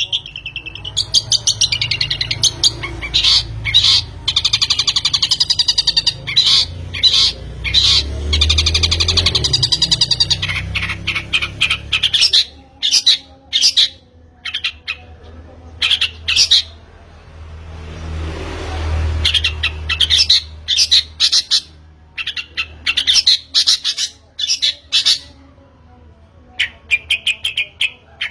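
Long-tailed shrike (pentet) singing: fast, varied runs of high chirps and harsh squawks, dense for about the first half, then in separate bursts with short pauses. A low rumble runs underneath in the first half.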